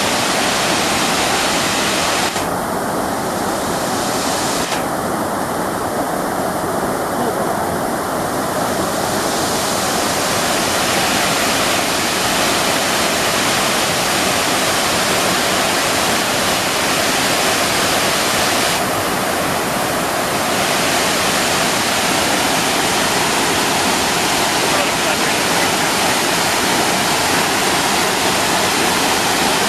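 Waterfall: a steady, loud rush of falling water. Its higher hiss thins briefly twice, once a few seconds in and again around the middle.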